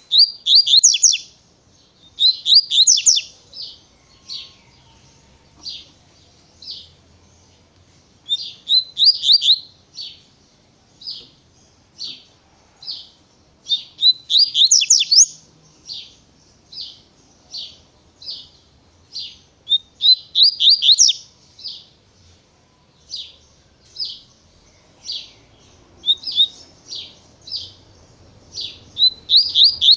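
Double-collared seedeater (coleiro) singing the 'tui-tui' song: quick bursts of clear, high whistled notes every few seconds, with single notes about once a second between the bursts.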